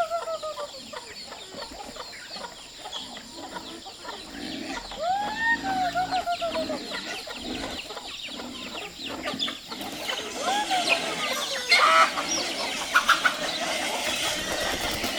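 A rooster crowing three times, about five seconds apart, each call rising and then falling away, with chickens clucking around it. Sharp knocks and rustling join in after about eleven seconds.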